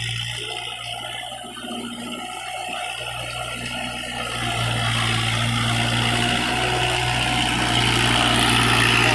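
Kubota MU4501 tractor's diesel engine running with a steady low hum, growing louder and hissier from about halfway through.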